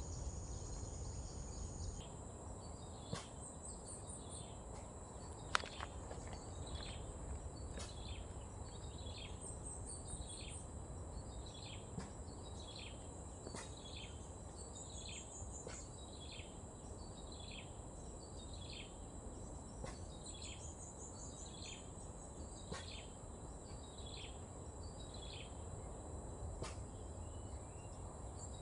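Field ambience: a bird repeats a short falling call about once a second, with brief high chirping trills now and then. Under it run a steady high insect drone and a low rumble. One sharp click comes about five and a half seconds in.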